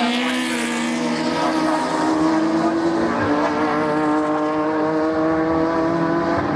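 Racing cars' engines running hard on track, several engine notes at once, falling in pitch as cars go by near the start, with a step in pitch about three seconds in.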